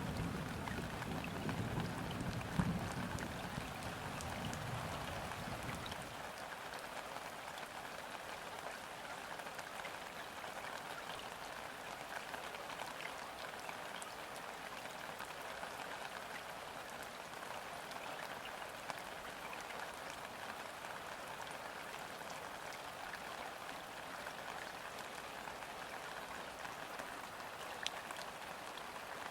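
Steady rain falling on a river's surface: an even patter of countless drops, with a few louder drops close by. A low rumble underneath ends about six seconds in.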